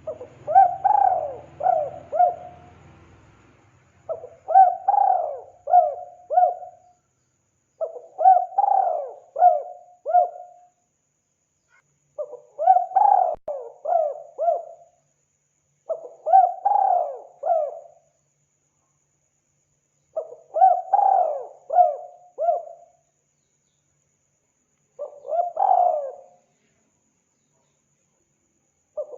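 Spotted dove (tekukur) cooing: a phrase of three or four coos, repeated seven times about four seconds apart, the last one shorter.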